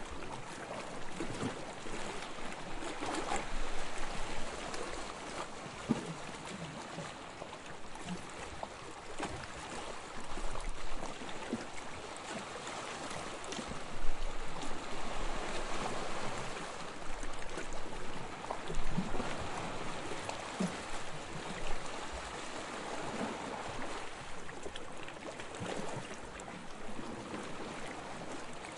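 Small, soft waves lapping on a sandy shore, a steady wash of water that swells and fades every few seconds with little splashes.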